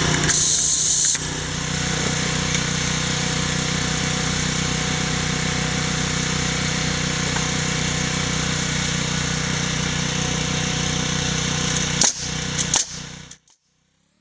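Engine running steadily at a constant speed, with a brief high-pitched hiss in the first second; a couple of sharp clicks near the end and then it cuts off abruptly.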